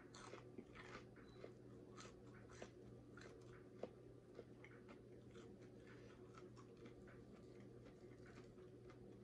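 Faint chewing of crispy fried chicken, with scattered small crunches and clicks over a faint steady hum.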